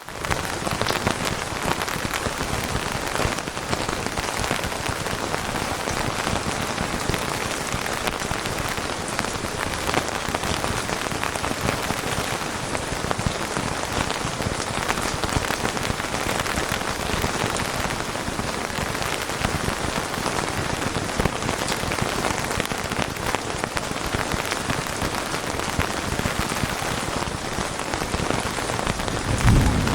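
Steady rain falling on a surface: an even hiss flecked with the taps of single drops. A low rumble of thunder starts right at the end.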